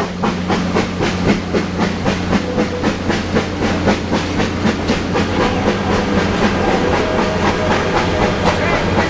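S160 2-8-0 steam locomotive working upgrade, its exhaust chuffing in a steady rhythm of about four beats a second over a low steady drone. About halfway through the beats run together into a more continuous sound.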